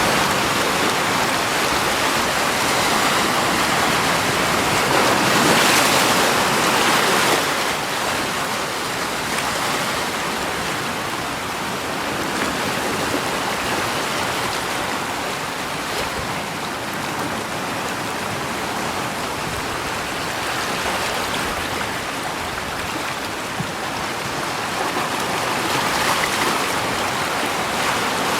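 Steady rushing water, with no distinct events. It is louder for the first seven seconds or so, softer after that, and swells again near the end.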